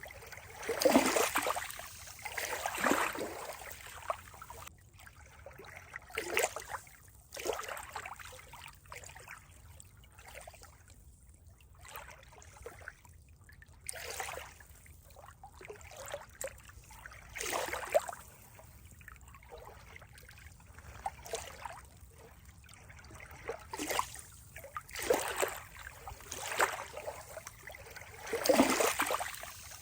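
Running water trickling and splashing in uneven surges every second or two, with quieter gaps between.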